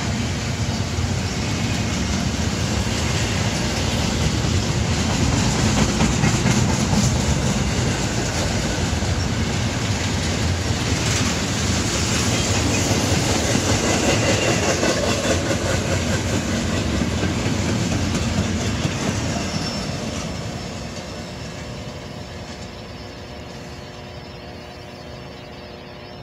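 Norfolk Southern double-stack intermodal freight train rolling past, its steel wheels clattering on the rails. The sound fades steadily over the last several seconds as the end of the train passes and draws away.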